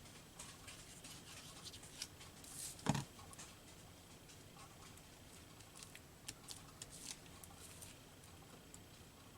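Faint rustling of paper and small clicks from hands working paper pieces on a table, with one sharp tap about three seconds in.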